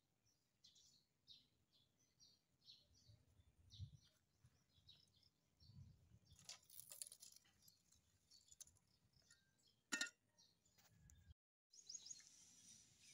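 Near silence, with faint, quick bird chirps repeating through the first half and a few light clicks. After a cut, a steady high hiss.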